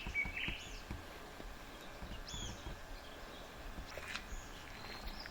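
Small forest birds calling in short, high chirps, a cluster at the start and more scattered later, over faint low thuds of movement.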